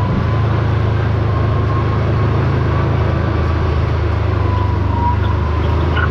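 Side-by-side UTV engine running at a steady cruise, with the tyres rumbling over a freshly graded trail.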